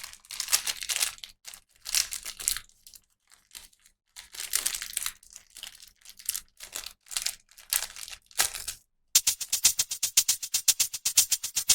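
Plastic toy packaging crinkling and tearing in irregular bursts. About nine seconds in, a fast, steady, shaker-like rattling beat starts suddenly.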